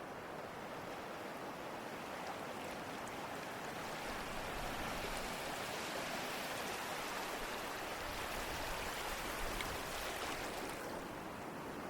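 Ocean surf: a wave swells over a few seconds into a full hiss, holds, then draws back near the end.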